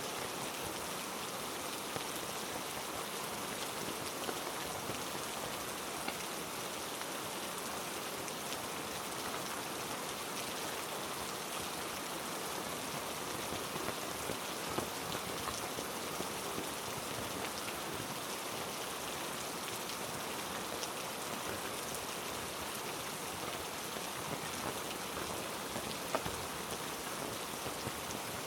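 Heavy rain falling steadily on the rainforest, with scattered sharp drips of individual drops over the even hiss.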